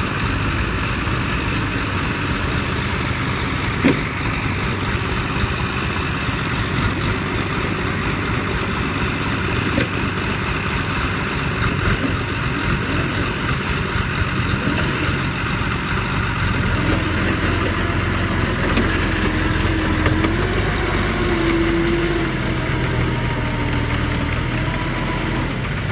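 Heavy vehicle engine running steadily under a loud, even noise, its pitch shifting and rising briefly in the second half. One sharp knock about four seconds in.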